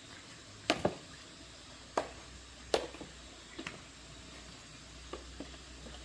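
A series of sharp clicks and knocks, the loudest four in the first three seconds and fainter ones after, over a faint low hum that comes in about a second and a half in.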